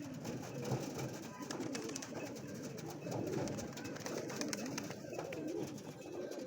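Several pigeons cooing, their low coos overlapping.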